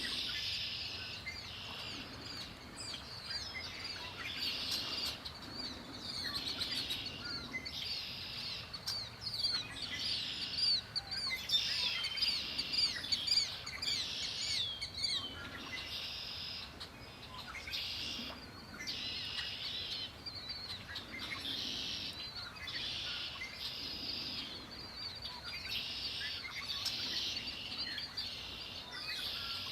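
Many songbirds singing at once in a dense, continuous chorus of overlapping high warbling songs with quick rising and falling notes.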